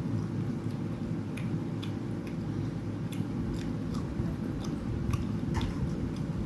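Someone chewing and eating a meal of rice and curry, with small irregular mouth and food clicks over a steady low hum.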